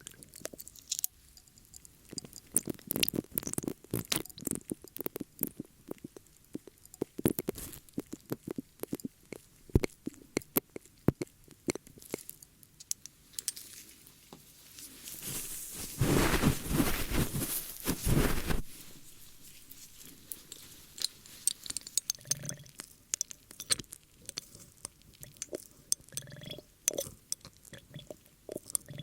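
Close-miked ASMR ear-cleaning sounds: irregular scratching and crackling clicks of tools working against a microphone's ear. A louder, steady rubbing rush comes in at about 15 s and cuts off at about 18 s.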